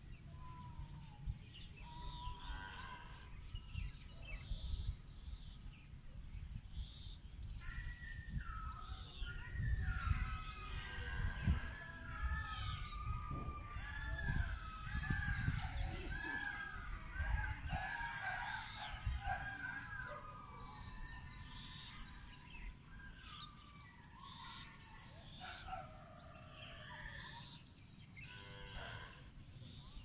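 Small birds chirping, with a dense run of short, repeated arching chirps for about ten seconds in the middle, over a steady low rumble.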